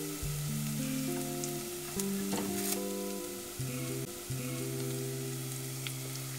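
Chopped onion and garlic sizzling in hot oil in a steel pot. A wooden spoon stirs them, knocking and scraping against the pan a few times. Background music of slow, held notes plays over it.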